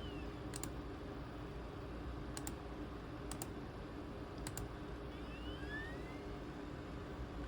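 Four sharp double clicks of a computer click button, each a quick press and release, coming a second or two apart over a low steady hum.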